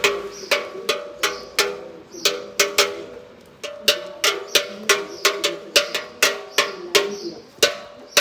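Bells struck by hand in a quick, irregular peal, about two to three strikes a second, several different pitches, each strike ringing on briefly, with a short pause near the middle.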